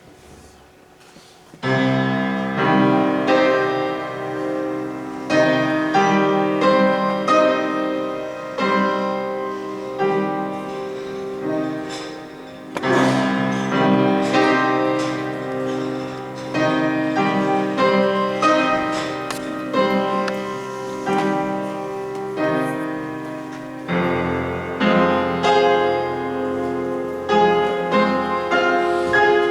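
Solo piano playing a classical-style piece, starting about two seconds in after a quiet moment.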